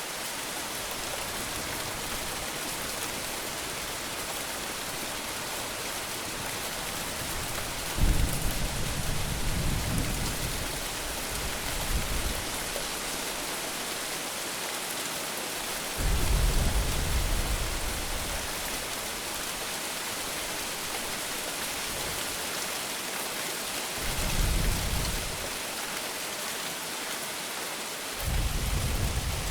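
Heavy monsoon rain falling steadily as a constant hiss, with four deep rolls of thunder. The first and loudest starts sharply about eight seconds in, and the others follow roughly every eight seconds, the last near the end.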